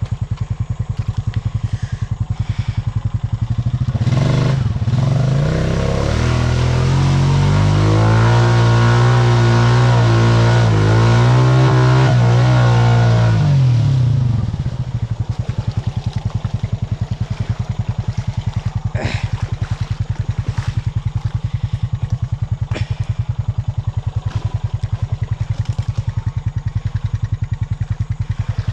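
Honda Rancher 420 ATV's single-cylinder engine idling with a steady putter, revved hard for about ten seconds starting about four seconds in, then dropping back to idle. The quad is bottomed out in muddy ruts and the revving does not free it.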